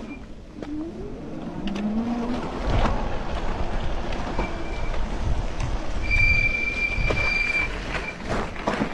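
Bicycle riding along: wind rumbling on the microphone with tyre and road noise. A high steady squeal comes and goes, longest from about six to nearly eight seconds in.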